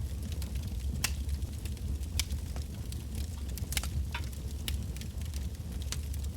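Wood bonfire burning: irregular sharp crackles and pops from the burning firewood, a handful of them louder, over a steady low rumble of the flames.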